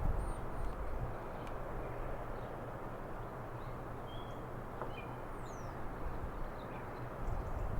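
Small garden birds giving faint, scattered high chirps and one short falling whistle, over a steady low background rumble.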